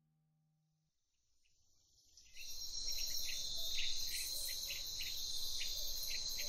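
Silence for about two seconds, then an insect chorus comes in: a steady high-pitched buzzing with a regular chirp pulsing about two or three times a second.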